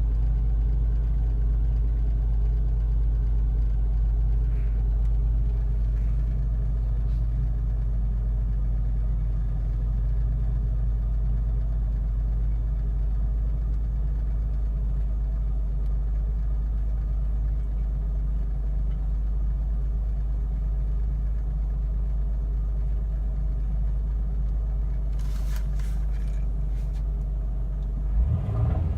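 Pontiac Bonneville SSEi's supercharged 3800 Series II V6 running steadily with a strong low rumble, the odd engine noise that the owner suspects is rod knock, heard mainly under load. A few clicks and a brief bump come near the end.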